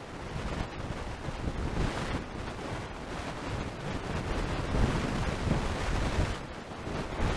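Gusty wind buffeting the microphone, a rumbling rush that swells and eases.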